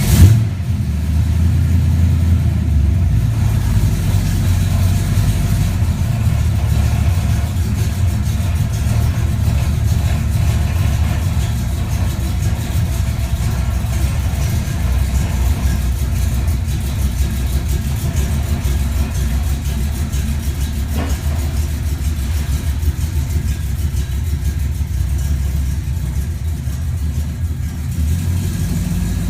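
Twin-turbo 1972 Plymouth Valiant running steadily on the road at low revs, its engine and loud Flowmaster-muffled exhaust making a deep, even rumble. A sharp thump comes right at the start.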